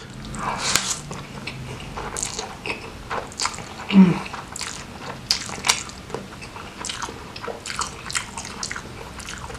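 Close-up wet chewing and lip smacking of a hand-fed mouthful of rice and spicy Samyang noodles in gulai curry sauce, with many short smacks throughout. The loudest sound comes about four seconds in, as noodles hanging from the mouth are drawn in.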